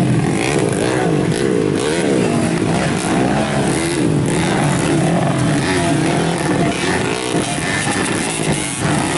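Several modified underbone motorcycle engines running and revving at once, their pitches rising and falling over one another.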